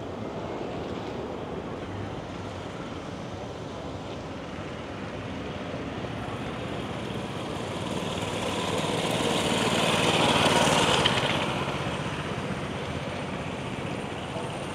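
A motor vehicle passing close by: its engine and road noise grow louder to a peak about ten seconds in, then fade away.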